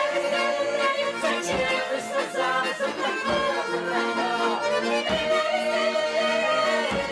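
Accordion playing a lively Russian folk tune as an instrumental break between sung verses, with sustained chords under a running melody.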